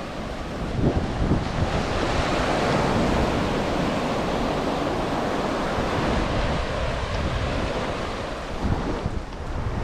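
Atlantic surf washing onto a beach in a steady rush of breaking waves, with wind rumbling on the microphone in gusts about a second in and near the end.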